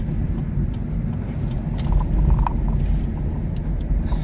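Steady low rumble of a car's engine and tyres heard from inside the cabin while driving, with faint scattered clicks.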